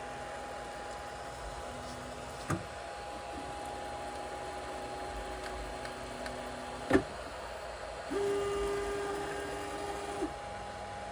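3D printer powered on with a steady whine, probably from its fans. Its stepper motors drive an axis in held tones, one run from about 3.5 to 7 seconds and a louder one from about 8 to 10 seconds. Two sharp clicks come about 2.5 and 7 seconds in.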